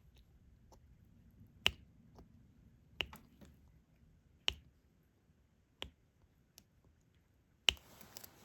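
Diamond-painting drill pen tapping resin drills onto the sticky canvas: five sharp clicks roughly every one and a half seconds, with a brief rustle after the last.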